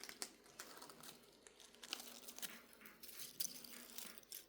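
Faint, irregular crinkling and rustling clicks of a kitten biting and tugging at Christmas tree branches.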